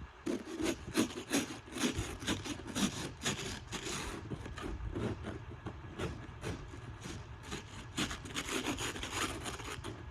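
Snow being scraped off a layer of ice in quick repeated strokes, about three or four a second, hard and gritty where it rasps on the ice beneath.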